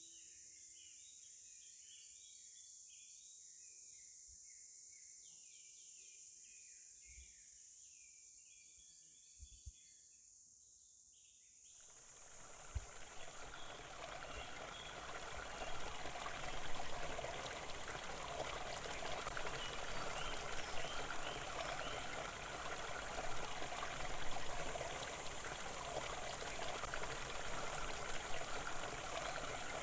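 Birds chirping softly over a faint steady hiss. About twelve seconds in, the steady rush of flowing stream water comes in and carries on.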